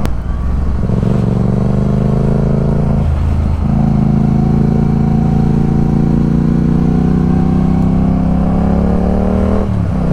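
Yamaha MT-07's 689 cc parallel-twin engine pulling under acceleration, its pitch climbing steadily, with a brief drop about three seconds in and again near the end as the rider shifts up a gear.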